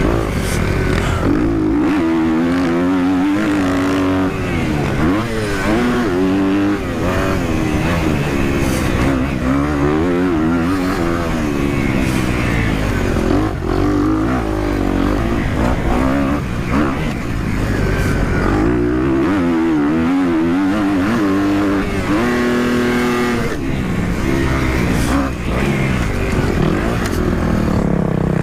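Dirt bike engine revving as the bike is ridden, its pitch climbing and dropping over and over with throttle and gear changes, and briefly holding a steady pitch near the end.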